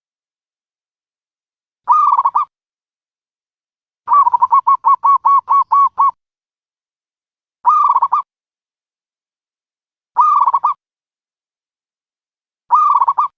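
Dove calling, as used for a trapping lure: short bursts of quick cooing notes about half a second long, repeated every two to three seconds, with one longer run of about ten rapid notes near the middle.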